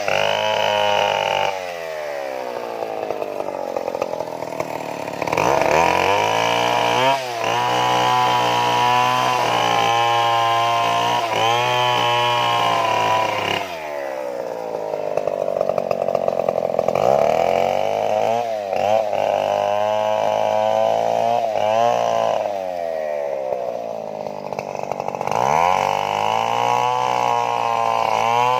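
Two-stroke Stihl chainsaw running hard through wood, its engine note sagging and then climbing back up about three times.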